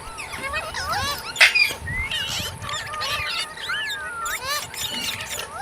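Parrots chattering with quick rising and falling whistles and chirps, with a sudden loud call about a second and a half in.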